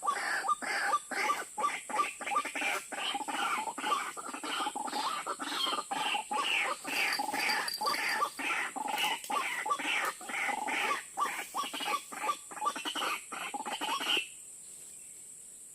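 White-breasted waterhen (ruak-ruak) calls: a fast, continuous run of harsh repeated notes, several a second, that cuts off abruptly near the end. A steady high-pitched hiss runs underneath.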